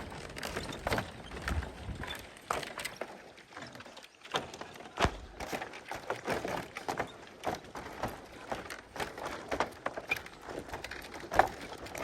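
Footsteps on a hanging footbridge: a steady run of irregular knocks and clacks as feet strike the loose deck slats.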